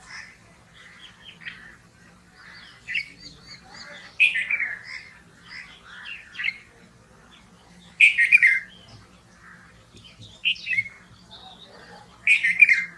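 Red-vented bulbul calling: loud, short chirpy phrases about every four seconds, with quieter chirps in between.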